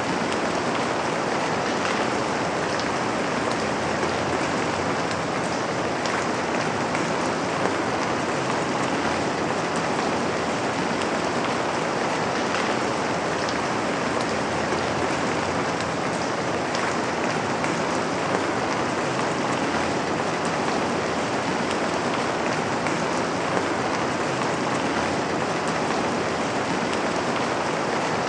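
Steady rain falling, with a constant hiss and faint scattered drop ticks.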